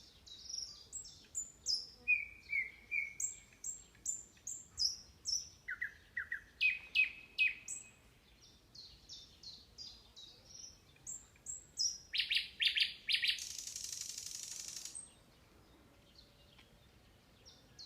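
Several songbirds singing, with series of short, high, falling notes repeated rapidly. A louder run of notes comes about twelve seconds in, followed by a dry buzzing trill of under two seconds.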